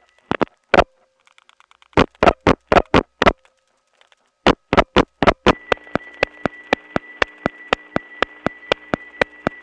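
Dial-pulse clicks on a telephone line in three groups of two, six and four, then the called line answers with steady ticking about three a second. Under the ticks runs a constant hiss and hum, the Woodland Hills office's distinctive noise on unbalanced power.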